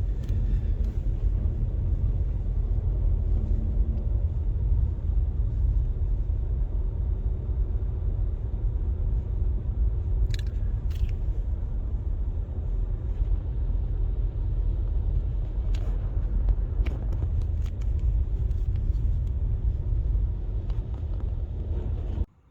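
Steady low rumble of a car driving along a snow- and ice-covered street, with a few faint clicks in the middle; it cuts off abruptly near the end.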